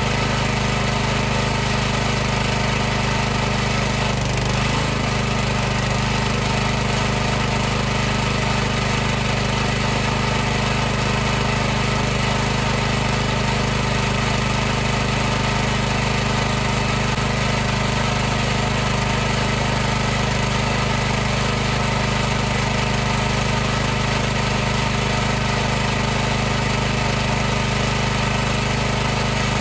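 High-pressure washer running steadily, its pump and motor giving an unbroken mechanical drone with a constant low hum, wavering briefly in pitch about four seconds in.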